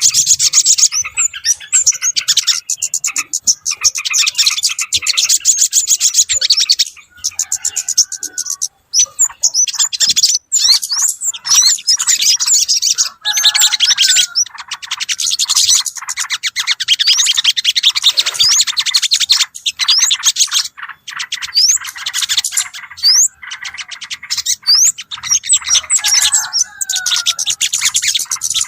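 Bird-lure recording of small birds chirping, dense and rapid, with many high calls overlapping and short gliding whistles among them. The chirping comes in long runs broken by brief pauses every few seconds.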